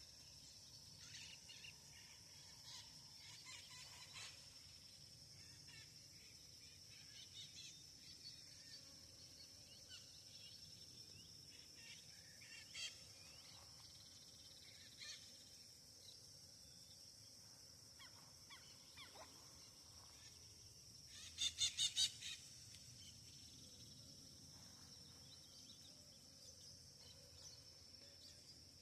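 Outdoor nature ambience: a steady high-pitched insect drone with scattered faint bird chirps. About three-quarters of the way through, a bird gives one loud call, a quick run of harsh notes lasting about a second and a half.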